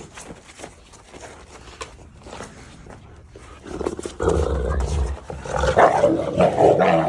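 Cane Corso growling and snarling loudly at a pit bull puppy, a harsh correction to stop her play-biting. Faint scuffling comes first, then the growl starts about halfway in and builds toward the end.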